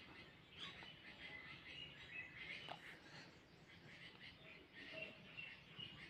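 Near silence, with faint chirping of small birds in the background.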